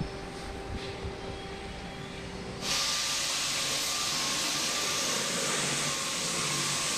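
A steady workshop machine hum, then about two and a half seconds in a loud, steady hiss of compressed air starts suddenly and keeps going.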